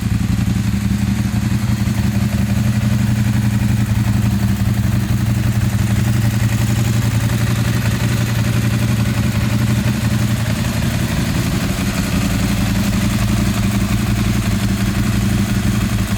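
Ducati 748 SP's 90-degree V-twin engine running steadily at one even engine speed, with no revving.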